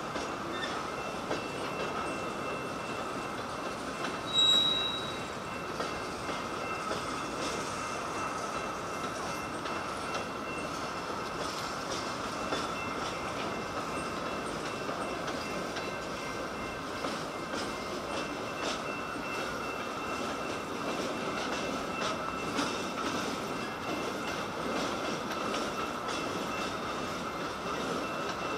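Freight train of hopper cars rolling past: a steady rumble of steel wheels on rail with a constant thin squeal and irregular clicking of wheels over rail joints. About four seconds in, a brief, louder high-pitched squeal.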